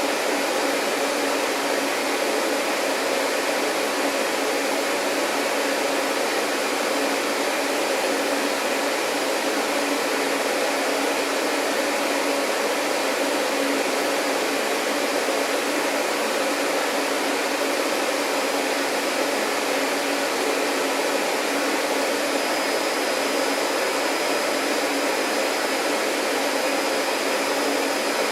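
Vacuum cleaner running steadily, an even hiss without pauses. A faint, steady high tone joins about three quarters of the way through.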